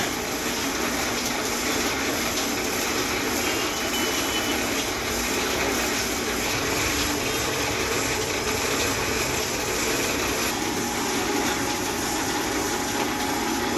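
Steady mechanical running noise, an even hiss-laden hum that does not change.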